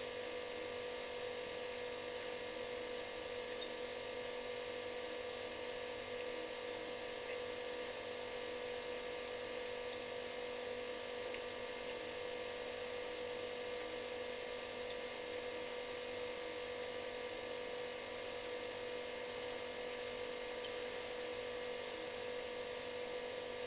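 Refrigerator running: a steady, unchanging electric hum with one strong mid-pitched tone over a faint hiss.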